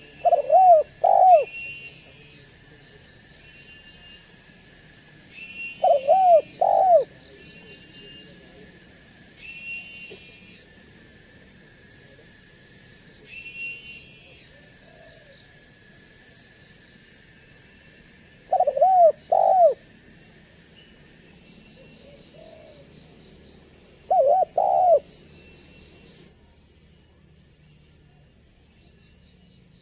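Spotted dove cooing in short two-note phrases, four times, several seconds apart. A smaller bird chirps higher between the phrases, about every four seconds in the first half.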